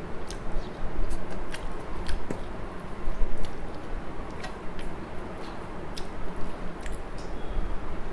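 A person chewing food close to the microphone, with irregular short mouth clicks.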